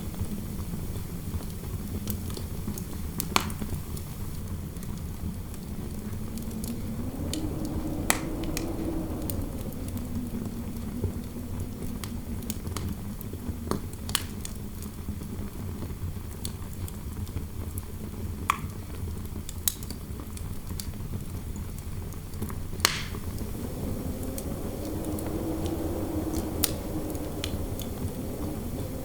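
Wood fire crackling with scattered sharp pops, over a low, steady wind howl that swells in pitch and loudness twice, around a third of the way in and again near the end.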